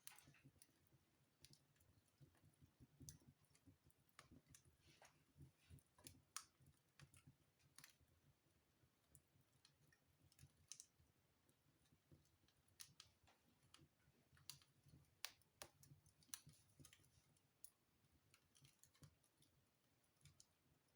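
Wood fire burning in a fireplace, faint, with irregular sharp crackles and pops over a low rumble of the flames.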